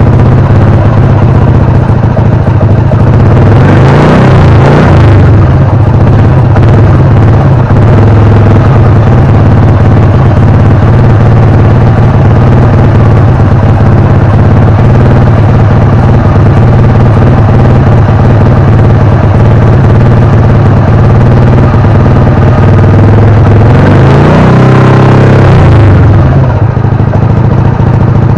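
Honda Blade 125 Fi's single-cylinder four-stroke engine running loudly and steadily through an aftermarket CBR exhaust muffler. The pitch sweeps up and back down briefly twice, about four seconds in and again near the end.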